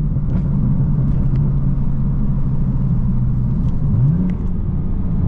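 BMW M4's twin-turbo inline-six running steadily while driving, heard from inside the cabin. A little after four seconds in, the engine note rises quickly.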